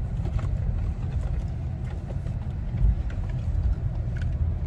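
Steady low rumble of a car driving, heard from inside the cabin, with a few faint small clicks over it.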